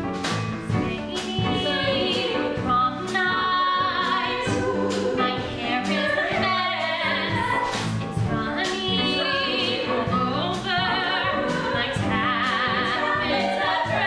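Live musical-theatre song: singers holding notes with heavy vibrato over a rock-and-roll pit band, with regular drum hits.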